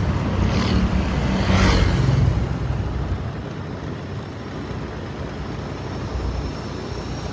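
Motorbike riding along a road: engine hum, road noise and wind on the microphone, louder for about the first two seconds and then easing off to a steadier, quieter rush. A faint high whine comes in near the end.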